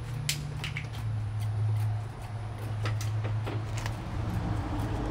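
Hand-pumped hydraulic cab-tilt pump being worked to raise the truck cab, giving scattered metallic clicks and knocks at an uneven pace, over a steady low hum.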